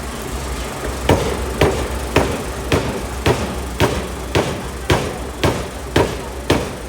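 750 kg pneumatic power hammer striking a hot steel forging in a steady rhythm of about two blows a second. The blows begin about a second in, over the low hum of the running hammer.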